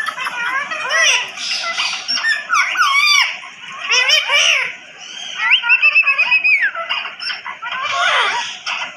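Pet parrot chattering: a string of varied whistles and squawks that glide up and down in pitch, with a quick trill of repeated notes a little past the middle.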